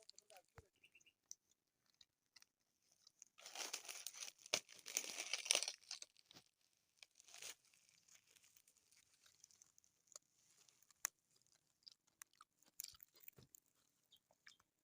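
Crunchy chewing close to the microphone, with a longer burst of crunching from about three and a half to six seconds in and scattered small clicks around it.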